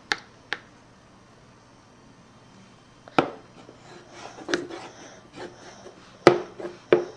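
A crayon tapping and knocking on paper over a hard tabletop: two taps at the start, a quiet gap of a couple of seconds, then more scattered sharp knocks, the loudest about six seconds in.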